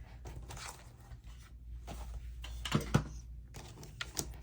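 Paper being handled on a work table: light rustling and small taps, with the loudest pair of taps about three seconds in.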